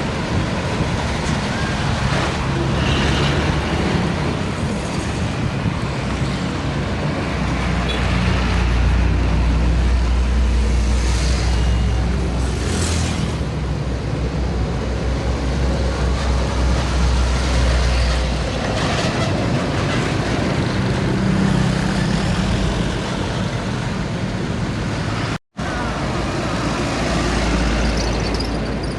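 Road traffic with heavy diesel trucks passing close by, a deep engine rumble that swells to its loudest over the middle of the stretch and again later. The sound cuts out for an instant near the end.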